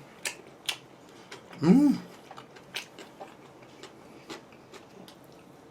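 A person chewing a bite of kebab in bread, with scattered small mouth clicks and a short hummed vocal sound about two seconds in.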